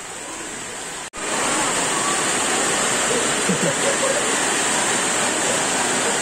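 Steady heavy rain falling on a sheet roof, a dense even hiss. It cuts out for an instant about a second in, then comes back louder.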